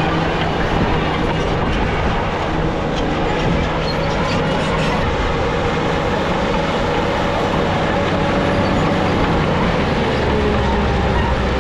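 Crawler bulldozer running: a steady diesel engine with the clatter of its steel tracks.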